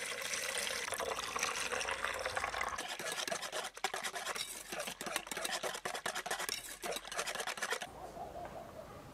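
A liquid mixture being stirred in a bowl: a dense, wet scraping with many quick clicks that stops abruptly near the end.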